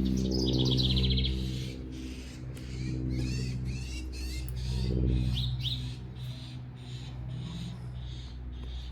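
Songbirds chirping, with a quick trill about half a second in and a run of short down-slurred notes around three seconds in, over a steady low droning hum that is louder than the birds.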